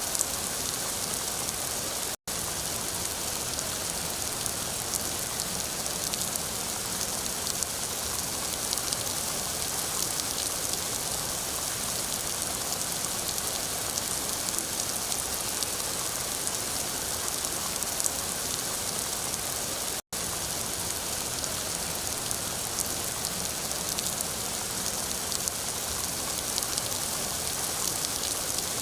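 Steady rain falling, a dense hiss with fine scattered drop ticks. It cuts out to silence for an instant twice, a few seconds in and again after about twenty seconds.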